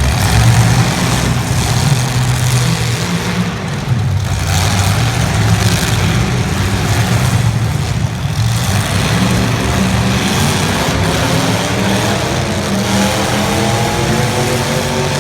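Several 1980s stock cars' engines running and revving loudly in a demolition derby, with a wavering pitched tone in the last few seconds.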